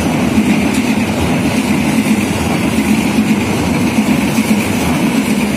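Train passing close by: a loud, steady rumble of its wheels on the rails.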